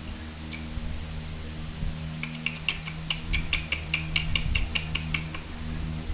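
Lego bricks clicking together as they are handled: a quick run of small, sharp plastic clicks, about five a second, starting about two seconds in and stopping about a second before the end.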